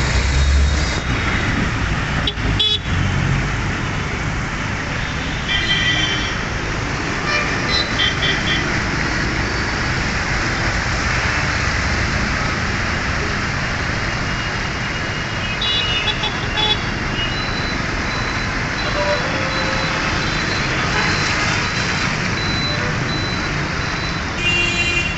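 Road traffic in heavy rain: a steady wash of rain and tyre noise, with vehicle horns tooting several times.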